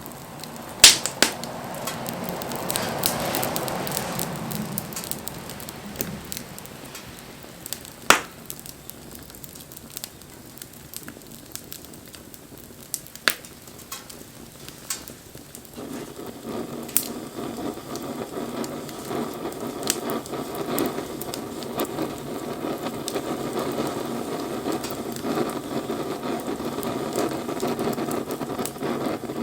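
Wood bonfire crackling, with sharp pops every few seconds; about halfway through a steadier rushing noise comes in and stays.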